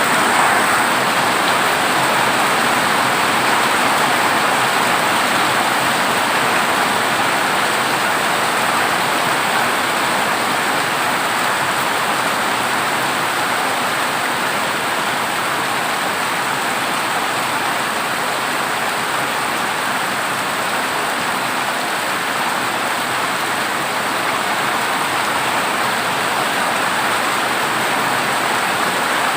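Heavy rain pouring steadily onto a corrugated zinc (tin) roof, a dense, even hiss of drops.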